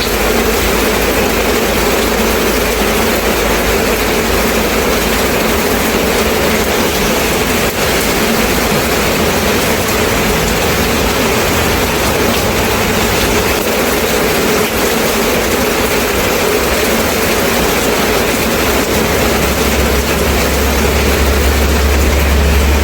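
Steady rain, an even hiss with no breaks, over a low rumble that grows louder near the end.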